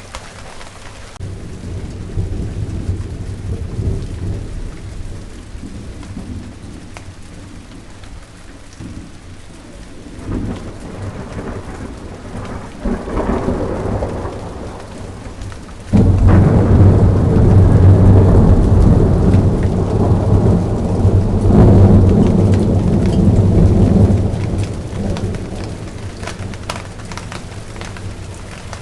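Rain falling steadily, with thunder: low rumbles a few seconds in, then just past halfway a sudden loud peal that rumbles on for several seconds before dying away.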